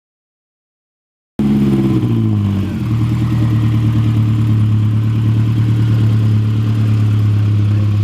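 Dead silence for about the first second and a half, then a car engine comes in with its revs falling for about a second before settling into a steady low drone.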